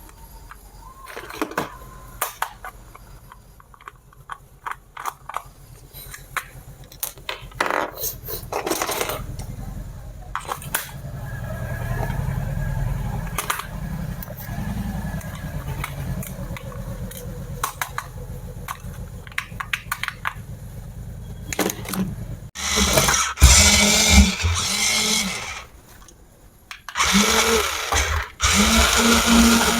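Plastic clicks and handling, then a remote-control toy vehicle's small electric motors and plastic gears whirring loudly, stopping for about a second and starting again near the end.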